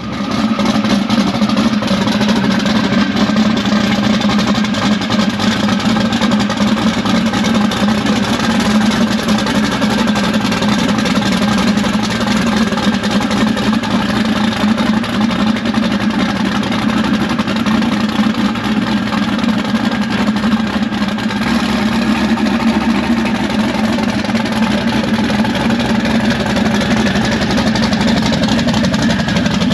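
Twin-turbo small-block Mopar V8 of a drag-race Dodge Dart idling steadily and loudly, with no revving.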